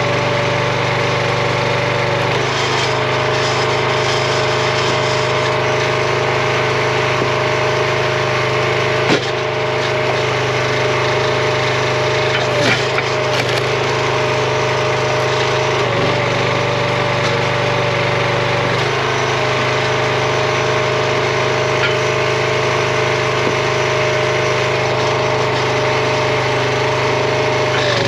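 RuggedMade log splitter's engine running steadily, its note shifting a few times while red oak is split, with a couple of sharp wood cracks about 9 and 13 seconds in.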